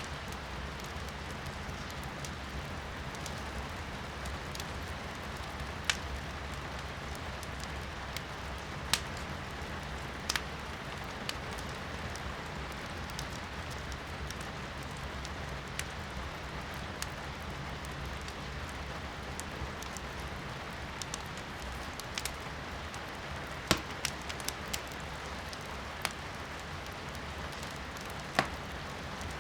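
Firewood burning in a fireplace, crackling with sharp pops every few seconds, over a steady hiss of rain heard from inside the room.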